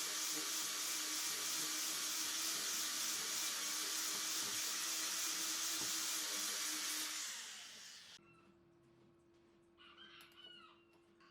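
Electric woodworking power tool running steadily at full speed, then switched off about seven seconds in and winding down. A faint hum remains, and a brief animal call comes near the end.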